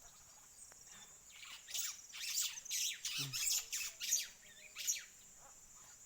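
Superb starling calling: a rapid, jumbled run of short, harsh, squeaky chattering notes lasting about three seconds. A steady high-pitched insect trill runs behind it.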